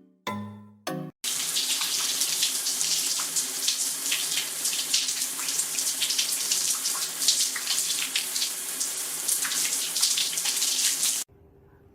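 Water running hard from a tap, a steady splashing rush that cuts off suddenly near the end. A few chime-like musical notes ring out just before it starts.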